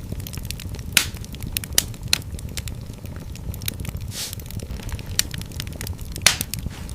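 Fireplace fire crackling: many small sharp pops and snaps over a steady low rumble, with louder pops about a second in and near the end.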